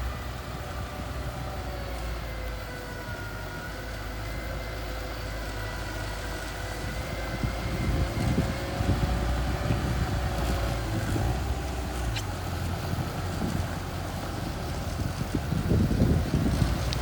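Mini bulldozer's engine running steadily while working, a low rumble with a faint steady whine above it that grows somewhat louder in the second half.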